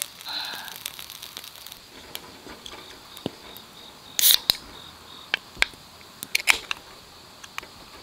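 Tall aluminium beer can being opened: a sharp pull-tab crack with a short fizz about four seconds in. A few light clicks and taps follow as the can is handled.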